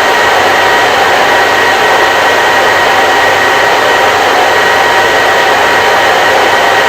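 Electric hair dryer running steadily: a constant rush of blown air with a faint steady whine from its motor.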